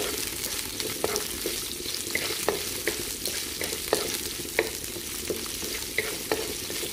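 Lemongrass stalks and slices of Thai ginger sizzling in hot oil in a nonstick wok, with a wooden utensil stirring them and tapping against the pan now and then.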